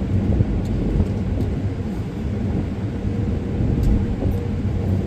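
Automatic car wash machinery running, heard from inside the car's cabin as a steady low rumble with a faint hum.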